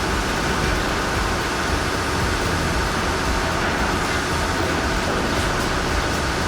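Heavy machinery running: a steady, unbroken mechanical noise with no changes.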